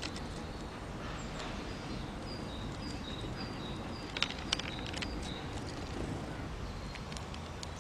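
Garden bird calling: a run of short, high, evenly spaced notes, with two sharp taps about four seconds in, over a steady low background rumble.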